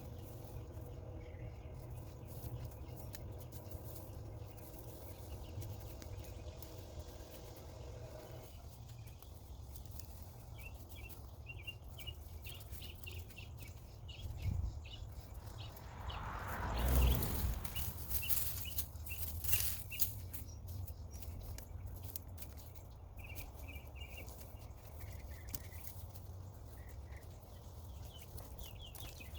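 Hands digging through loose garden soil to uncover potatoes, with soft scraping and rustling and one louder rustle about two-thirds of the way through. Small birds or insects chirp repeatedly in the background.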